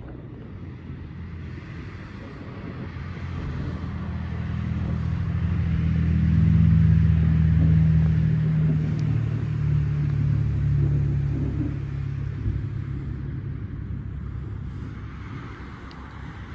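A deep rumble that swells for several seconds, peaks about seven seconds in, then slowly fades.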